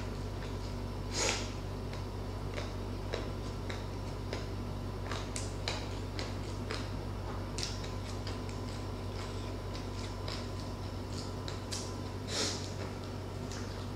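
Close-miked eating sounds from a person chewing with the mouth: scattered wet smacks and small clicks, with two louder short breathy sounds, about a second in and near the end.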